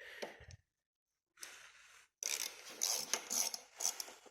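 Ratchet wrench clicking in three spells of short, rapid strokes, the last and longest lasting about two seconds, with some metal scraping.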